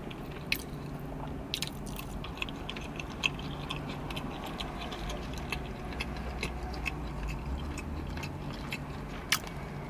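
A person chewing soft cheese-stuffed gnocchi with the mouth closed: scattered small wet clicks and smacks over a steady low hum.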